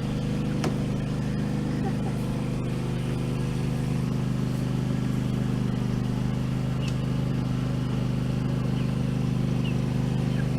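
A vehicle engine running at a steady speed, an even low hum with no revving.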